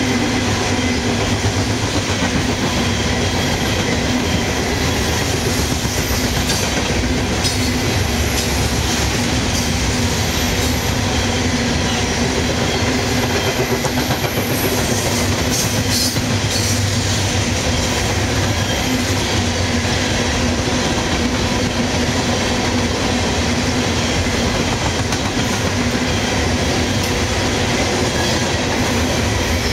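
Freight cars of a CSX freight train rolling steadily past: the continuous clatter of steel wheels on rail, with brief high-pitched wheel squeals a few times.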